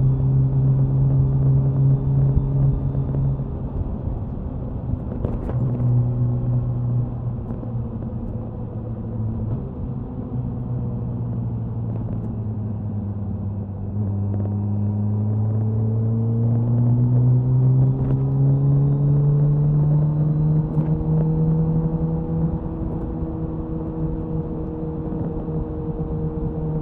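Suzuki Hayabusa's inline-four engine and exhaust at expressway cruising speed. The note drops a few seconds in and sags lower, then climbs steadily from about halfway as the bike speeds up, and holds steady near the end.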